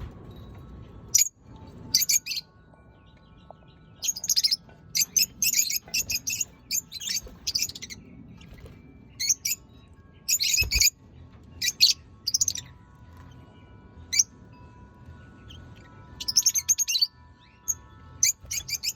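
Lovebirds chirping in short, shrill bursts that come in clusters, with brief pauses between runs.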